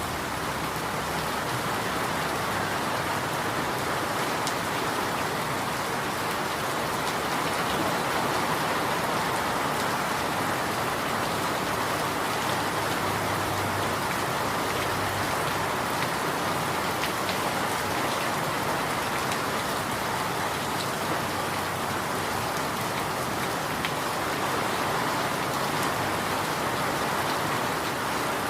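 Steady rain, an even, continuous hiss of falling water with faint scattered drop ticks.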